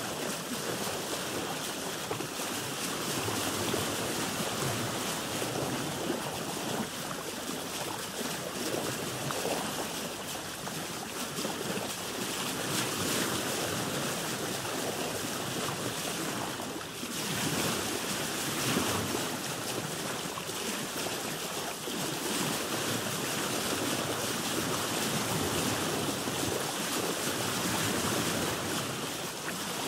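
Sea waves washing and lapping around a boat, heard as a continuous rush of water noise that swells and eases, with wind.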